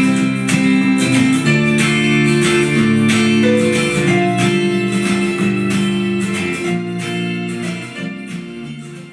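Guitar music: quick plucked notes over held low notes, fading out near the end.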